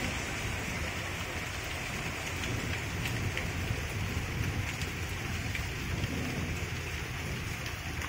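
Steady rain falling, an even hiss with a few faint drop ticks, over a low rumble.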